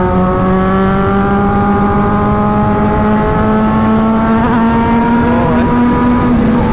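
Two Kawasaki inline-four naked bikes, a Z800 and a Z900, running side by side at highway speed, with a steady engine note that slowly rises in pitch as they pull, over heavy wind rush.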